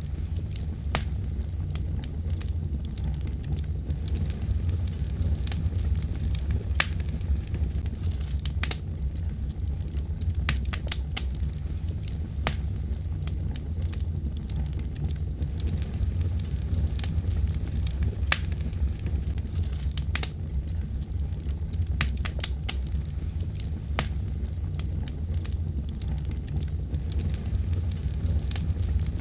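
Wood fire burning: a steady low rumble with frequent sharp, irregular crackles and pops of the burning wood.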